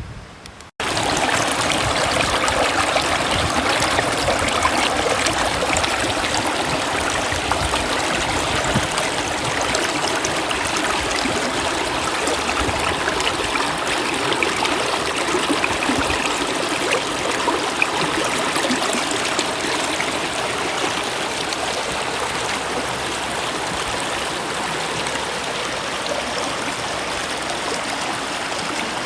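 Stream water running steadily. It starts suddenly just under a second in.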